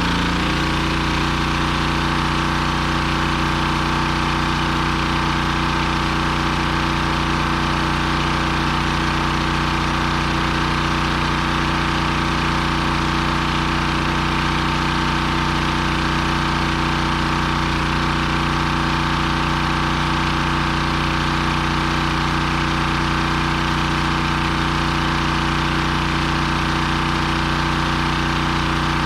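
Gas engine of a pressure washer running steadily under load, with a brief wobble in pitch right at the start.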